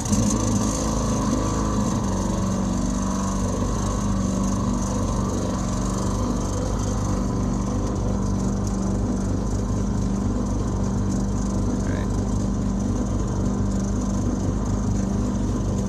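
Heater blower fan of a 1991 Ford F-150 switched on and running steadily, blowing hot air over the idling engine, with gurgling from the heater core lines: the sign of air bubbles trapped in the heater core circuit that needs purging.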